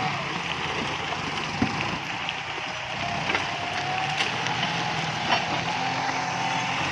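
Kubota MU5702 tractor's diesel engine running steadily under a hiss of rain, with a few sharp cracks of brush and wood snapping as the tractor pushes over clumps.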